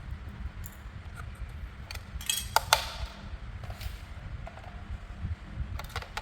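Hard plastic parts of a toy being handled, giving scattered clicks and clinks, with a quick cluster of sharper clicks about two and a half seconds in and another pair near the end.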